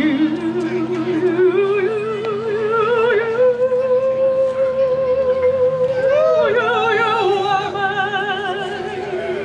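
Live band music: a solo melody line with heavy vibrato weaves up and down, holds one long note through the middle, then swoops in pitch near the end over the accompaniment.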